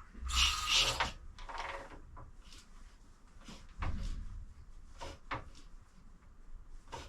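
Clicks and clunks from a 1928 Velocette KNS motorcycle's kickstart and engine as the kickstart is eased round by hand to find top dead centre on the compression stroke. There is a brief rush of noise at the start and a dull thud about four seconds in.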